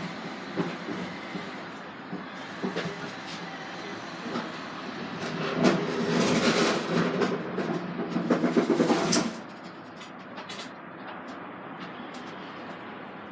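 Vehicle noise with a steady rumble; about halfway through, a louder rattling clatter rises for roughly four seconds, then drops back.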